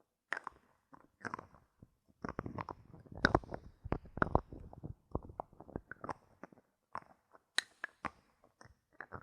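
Close-miked bottle caps being handled, with irregular clicking, tapping and crackling. A dense, louder flurry of clicks comes from about two seconds in to about four and a half seconds.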